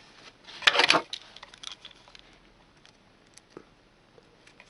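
Paracord being pulled through the weave and drawn tight: a brief rustling swish about a second in, a softer one after it, then faint scattered ticks from handling the cords and tool.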